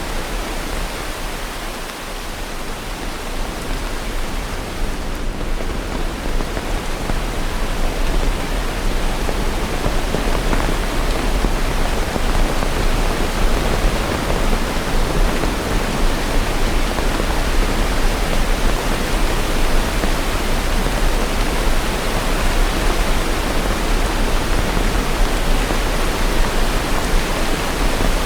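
Steady heavy rain, a dense even hiss with no separate drops or thunder standing out. It grows a little louder over the first several seconds, then holds steady.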